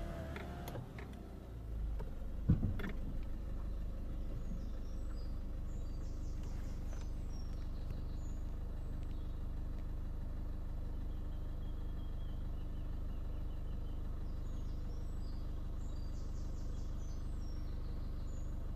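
Car engine idling steadily, with birds chirping now and then. There is a single thump about two and a half seconds in.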